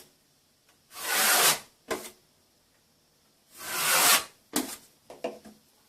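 Two long strokes of a plastering knife scraping across a base-coat plaster join, each followed by a short sharp tap of the blade, with a few small ticks near the end.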